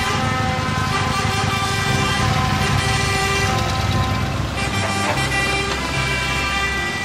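Truck air horns honking in long, steady blasts over running truck engines, with background music underneath.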